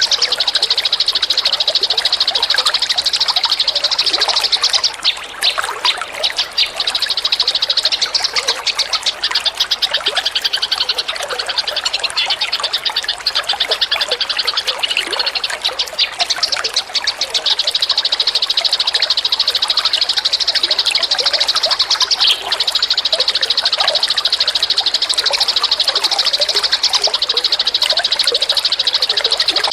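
Recorded songbirds: a continuous, very rapid high-pitched trill, with scattered chirps underneath. Partway through, the trill breaks into quick separate notes for several seconds, then runs steadily again.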